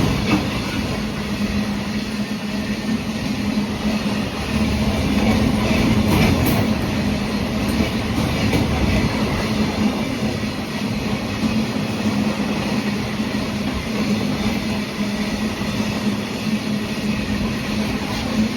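Indian Railways freight train running on the track: a steady rumble with a hum, and a brief patch of wheel clatter about six seconds in.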